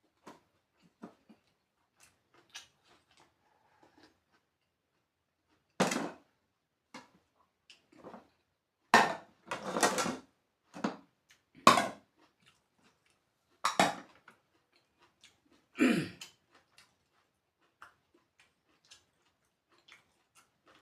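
Close-up eating sounds: cutlery clicking on dishes, with about six louder short clatters and mouth noises spread through the middle.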